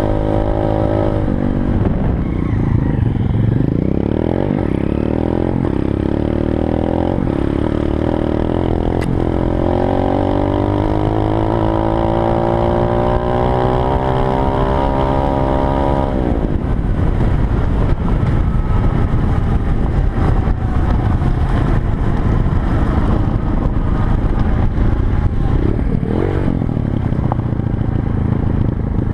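Pit bike engine under way, its pitch climbing steadily as the bike accelerates through the first half, then running hard and rougher at a higher, louder level, with a brief dip in revs near the end.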